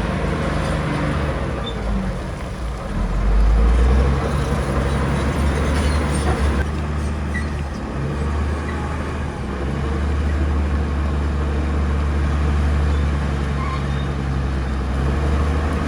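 Heavy earthmoving machinery's diesel engine running steadily with a deep low drone, swelling louder about three seconds in.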